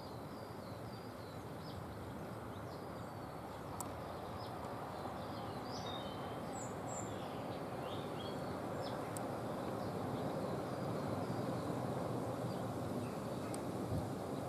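Small songbirds chirping, many short high calls scattered throughout, over a steady background rush of outdoor noise, with a few sharp clicks.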